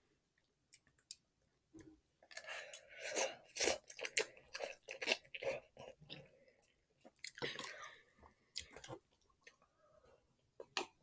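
Chewing and eating a mouthful of instant ramen noodles close to the microphone, in irregular bursts of wet mouth noises with short pauses in between.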